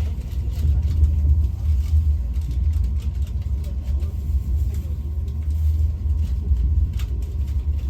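Passenger train running, heard from inside the carriage: a steady low rumble with a few faint ticks and clicks.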